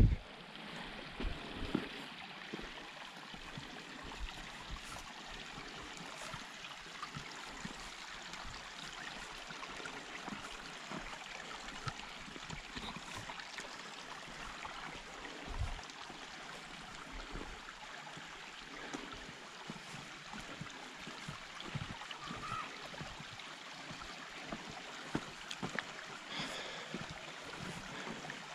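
Steady rush of flowing stream water, with scattered low thumps.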